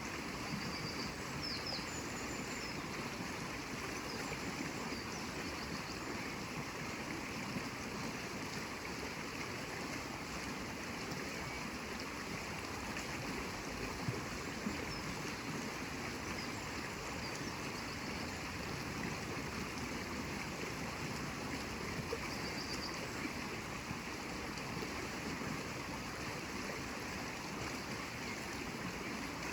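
Flowing stream water, running steadily and evenly. A few faint, short, high chirps sound about a second in and again around two-thirds of the way through.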